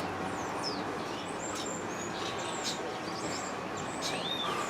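Small birds chirping: a run of short, high chirps and quick whistled glides over a steady background hiss.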